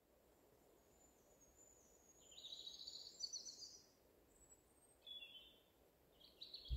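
Faint birdsong over a quiet forest background: a few short, high chirping phrases, the longest starting about two seconds in, with shorter ones later.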